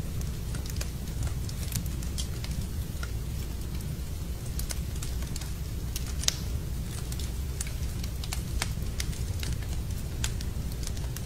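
Wood fire crackling in a fireplace: irregular sharp pops and snaps over a steady low rumble, the loudest pop about six seconds in.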